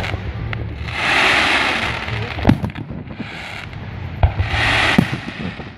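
Fireworks going off: two hissing stretches of about a second each and three sharp bangs, the last two close together near the end, over a steady low rumble.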